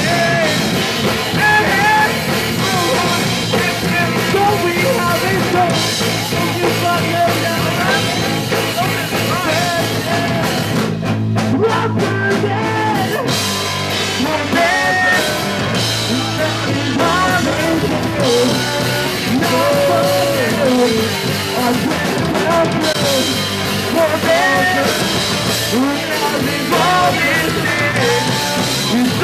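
Punk rock band playing a song live, with singing over guitars, bass and drums; the cymbals drop out briefly about halfway through.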